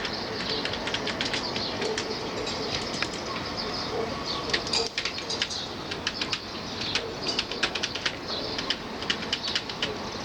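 Small birds chirping: many short, high chirps scattered throughout, over a steady background hiss.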